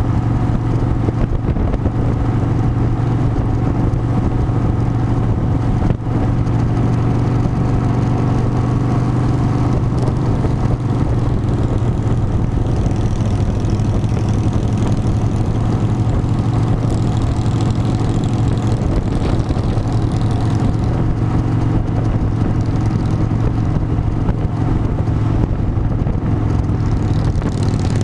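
Harley-Davidson motorcycle's V-twin engine running at a steady speed, a constant low drone with no change in pitch.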